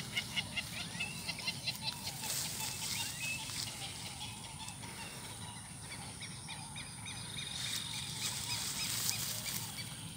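Birds calling. A rapid series of short, repeated notes comes in about the first second and a half, and another run of short chirps, about five a second, comes later on, over a faint steady low rumble.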